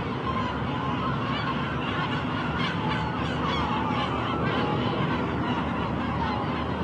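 Many seagulls calling at once, their overlapping cries and squawks running over a steady background noise.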